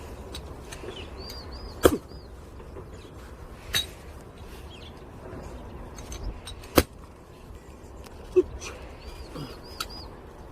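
Axe striking and splitting firewood logs: four sharp chopping knocks a second or two apart, the first and third the loudest. A bird gives a quick run of high chirps twice in the background.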